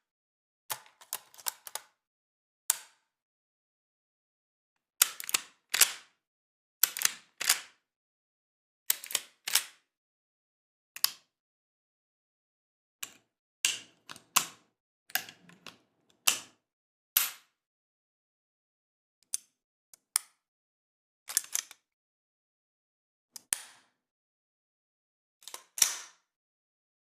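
Sharp mechanical clicks, some single and some in quick pairs or clusters, with silent gaps between them.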